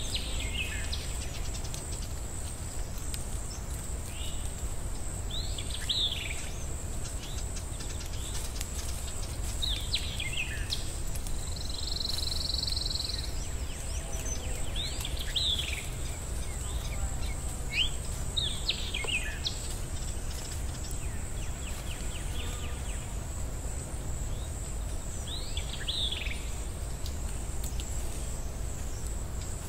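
Birds calling: short calls that sweep downward in pitch, repeated every few seconds, over a steady high-pitched hum and a low rumble, like a nature ambience.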